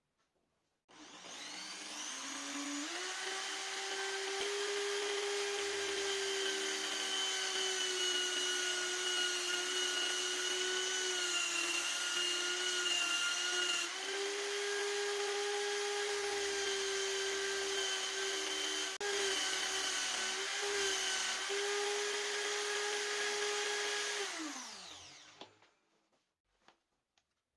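Electric power tool motor, such as a drill, starting up about a second in and running at a steady, high, whining pitch for over twenty seconds, with a few brief dips. It winds down with a falling pitch near the end.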